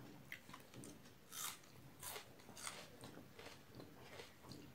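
Faint eating sounds: a person chewing rice and chicken curry eaten by hand, with a few short soft mouth noises.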